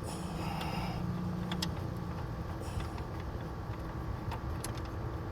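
Scattered light metallic clicks and clinks of hand tools working on the engine's belt tensioner, over a steady low hum.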